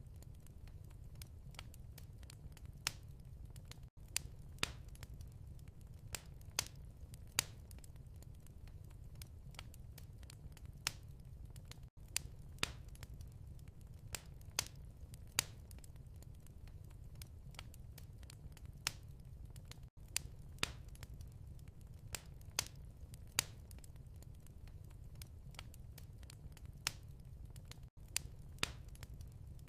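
Wood fire crackling in a fireplace: irregular sharp pops and snaps over a steady low rumble of the burning. The level dips briefly about every eight seconds.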